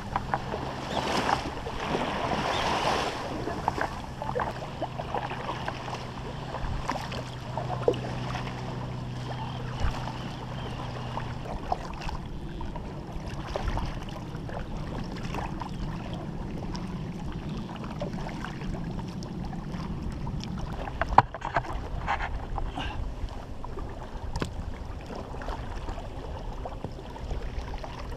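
Kayak on open bay water: water splashing and lapping at the hull, with wind on the microphone and scattered knocks, one sharp loud knock about two-thirds of the way through. A low steady hum runs underneath and stops about a third of the way in.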